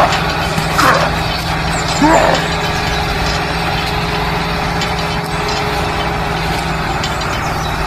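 A DIY mini RC tractor running with a steady engine-like hum, holding one low tone throughout. Two brief rising sounds cut in about one and two seconds in.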